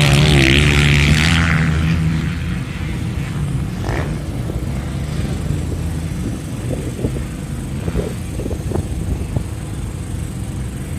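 Motocross motorcycle engine revving, loudest in the first two seconds with its pitch wavering, then fading into a steady low rumble.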